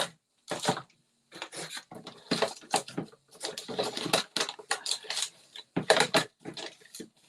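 Craft supplies and tools being handled and moved about on a tabletop: a quick, irregular run of clicks, taps and rustles.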